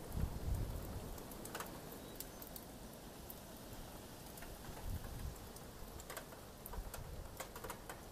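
Steady rain falling, with gusts of wind buffeting the microphone in low rumbles, strongest at the very start and again around five seconds in, and scattered light ticks of drops.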